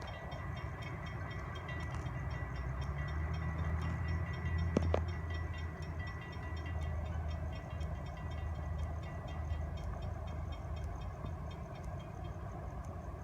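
Diesel locomotives of an approaching Florida East Coast freight train, a steady low engine rumble with a thin high tone that fades out about ten seconds in and a single sharp click about halfway through.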